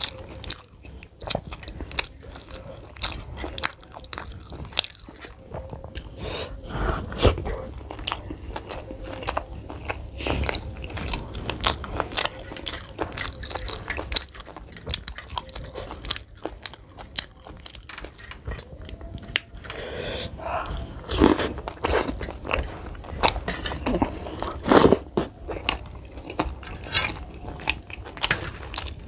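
Close-miked chewing and mouth sounds of a person eating momos and green chutney by hand, with a steady run of short clicks and a few louder bites.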